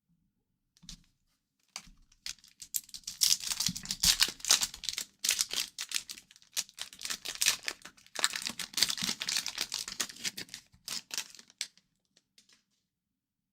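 Crinkling and tearing of a hockey card pack's foil wrapper as it is torn open and handled, a crackly rustle in two long stretches with many sharp little crackles.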